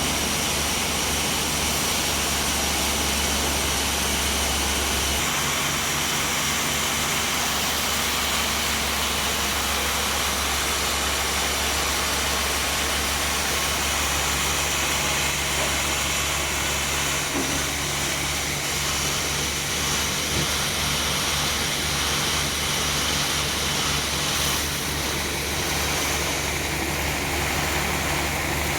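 A sawmill running: the steady drone of its motor under a broad saw hiss, the low tone shifting slightly a couple of times.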